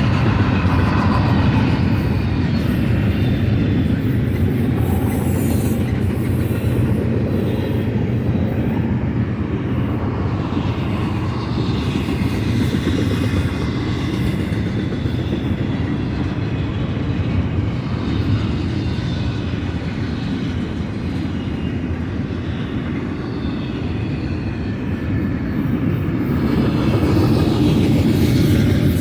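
Double-stack container cars of a long freight train rolling past: a steady, loud rumble of steel wheels on the rails, with faint clicking and wheel squeal at times.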